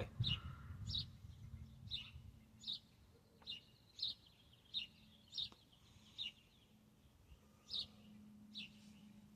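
A small bird chirping over and over: short, high, slightly falling chirps, about one every three-quarters of a second, with a brief gap near the end. A faint steady hum lies underneath.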